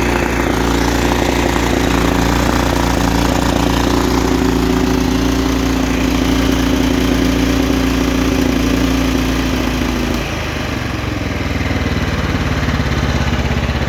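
Kohler PowerPlus 17 small engine running steadily at speed, then dropping to a lower, slower running note about ten seconds in as it is throttled back toward idle.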